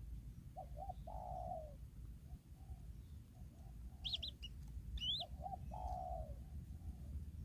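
A dove cooing: two short notes and then a longer falling coo, the phrase given twice, with two brief high chirps from another bird in between, over a steady low rumble.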